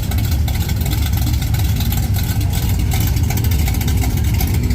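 Mud trucks' engines running with a loud, steady low rumble and a rough hiss over it.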